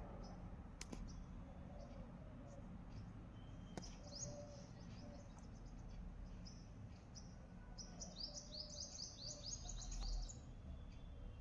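Small birds chirping in short, high, thin notes, with a quick run of falling chirps about eight seconds in, over a faint steady background rumble.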